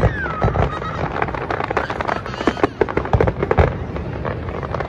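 Fireworks display: a rapid, overlapping string of bangs and crackles from shells bursting overhead.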